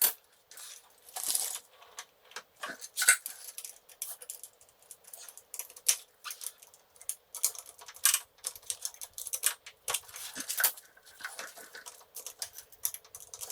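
Irregular metallic clicks, clinks and short scrapes of hand tools and small metal parts as a motorcycle clutch is taken apart, with a few sharper knocks scattered through.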